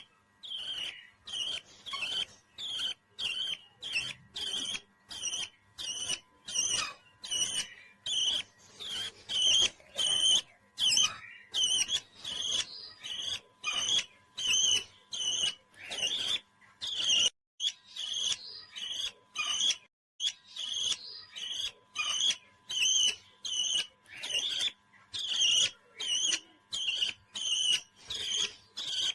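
Parrot calling over and over in short high chirps, about two a second, with brief gaps between them.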